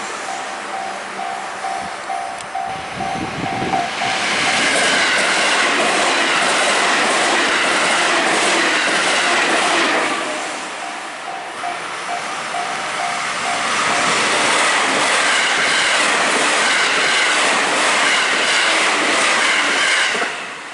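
Trains passing a Japanese level crossing: loud rushing wheel-on-rail noise with clickety-clack as one train goes by about four seconds in and another about fourteen seconds in. The crossing's warning bell rings in quick repeated dings at the start and again as the first train clears.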